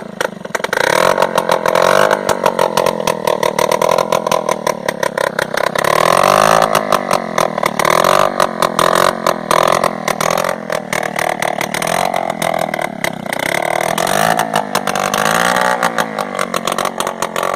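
80cc motorcycle engine running on a small farm machine, its speed rising and falling several times.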